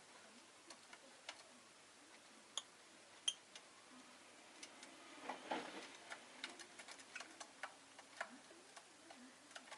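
Quiet, irregular light clicks and taps from a rosy-faced lovebird moving and pecking about, with two brief high peeps about three seconds in.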